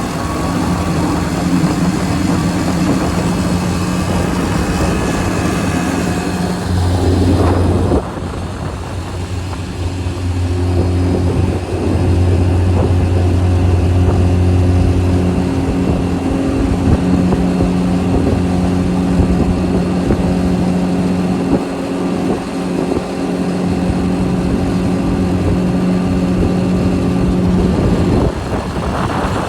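Tohatsu 20 hp outboard motor running under way, pushing a jon boat along, with wind buffeting the microphone. The engine note shifts about eight seconds in and again near the end.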